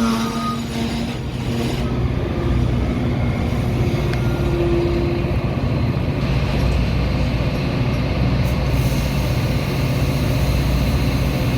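Metra commuter train at the platform, its diesel locomotive running with a steady low hum, and a brief higher tone about four and a half seconds in.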